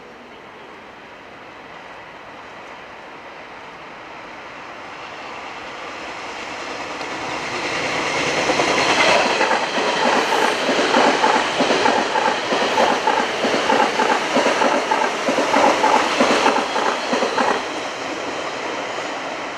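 JR West 381 series limited-express electric train passing: a rumble that grows as it approaches, then about ten seconds of rapid, loud clatter of wheels over the rail joints, cutting away sharply near the end as the last cars go by.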